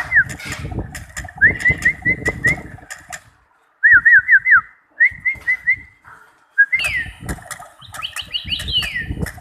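A songbird singing in quick runs of short, sharply down-slurred whistles, with a brief pause about three and a half seconds in. Scattered clicks and low thumps accompany the song.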